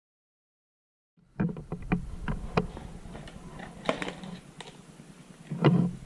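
Dead silence for about a second, then irregular clicks and knocks from hand work on a pit bike, over a low steady hum. One louder knock comes near the end.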